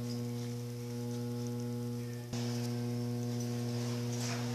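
Electrolux Turbo Limpeza 7.5 washing machine's motor humming steadily, with a short break and a click about two seconds in.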